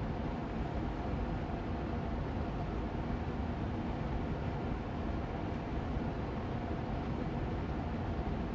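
Air purifier fan running steadily on medium speed: an even rushing of air with a faint low hum from the motor.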